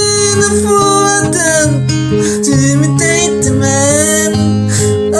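Music with a strummed acoustic guitar playing steady chords, a gliding melodic line over it.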